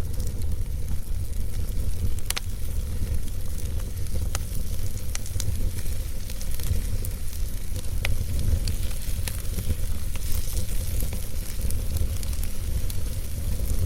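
Wood fire burning in a fireplace: a steady low rumble of flames with scattered sharp crackles and pops from the burning logs, the clearest about two seconds in and again about eight seconds in.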